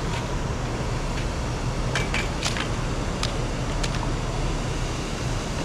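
Steady rushing background noise with a low hum under it. A handful of short, sharp clicks come between about two and four seconds in.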